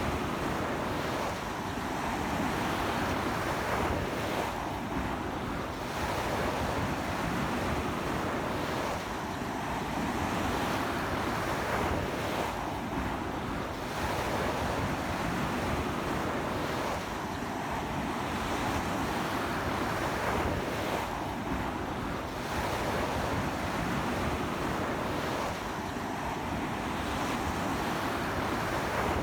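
Surf from strong wind-driven waves breaking on a beach, a continuous rush of water that swells and eases every four seconds or so, with wind buffeting the microphone.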